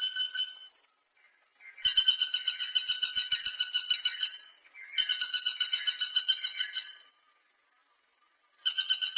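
Woodpecker calling in rapid rattling bursts of high, piercing notes, about ten notes a second, each burst lasting about two seconds and separated by short silences.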